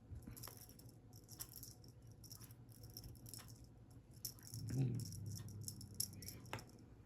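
Cat toy rattling in short repeated shakes, with a brief low sound about five seconds in.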